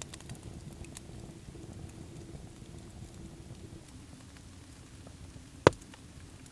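A single loud, sharp knock about five and a half seconds in, over a low steady background with a few faint clicks.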